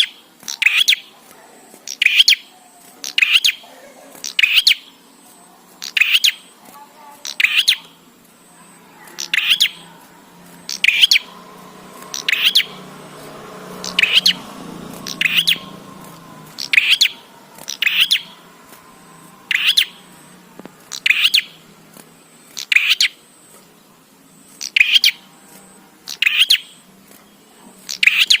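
Prenjak (small Javanese warbler-like songbird) calling: short, sharp chirps repeated about once a second in a steady series.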